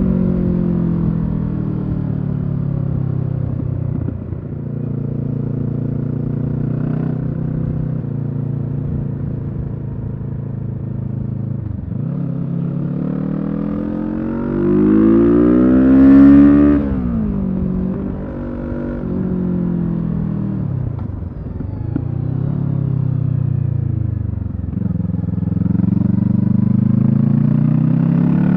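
Kawasaki Z650's parallel-twin engine through a Leo Vince EVO carbon aftermarket exhaust, ridden on the road. Its pitch rises and falls with throttle and gear changes. The loudest part is a hard acceleration about halfway through that cuts off sharply.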